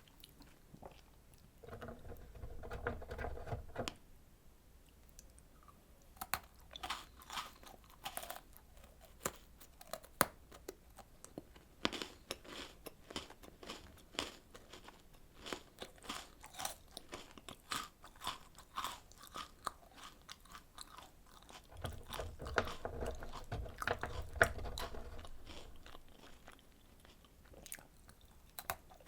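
Close-miked chewing and biting of strawberry desserts: crisp crunches and many sharp, wet mouth clicks, with two louder, fuller stretches of chewing, one about two seconds in and one about twenty-two seconds in.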